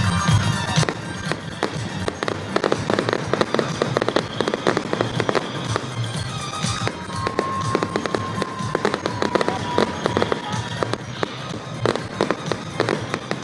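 Fireworks display: a rapid, continuous run of bangs and crackles, with music playing under it.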